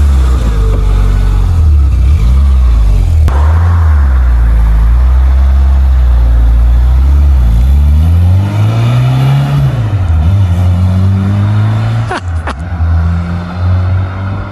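Citroën AX GT rally car's petrol engine running while it warms up just after starting, held above idle. About eight seconds in the revs rise and then fall back, and a sharp click comes near the end.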